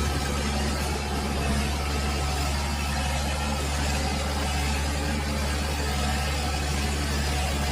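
Tractor diesel engine running steadily at an even speed, a constant low hum.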